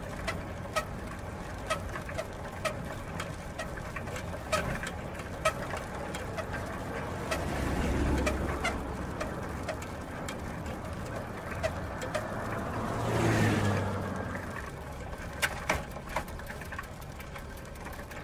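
Bicycle mechanism clicking: sharp ticks come at first about once a second, then unevenly. A louder sound swells and fades about 13 seconds in.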